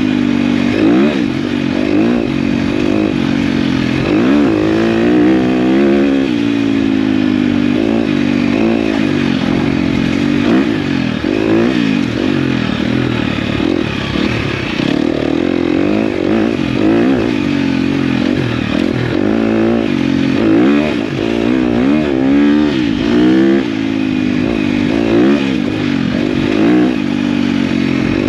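Dirt bike engine revving up and down as it is ridden along a twisty track, the throttle opening and closing every second or two so the engine note keeps climbing and dropping.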